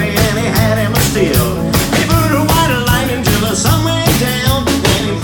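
A band playing an uptempo rock-and-roll number with a steady drum beat.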